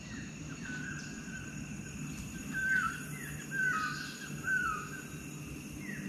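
A bird calling: a series of short down-slurred whistled notes, one early and then a run of them about every half second in the second half, over a steady high insect drone.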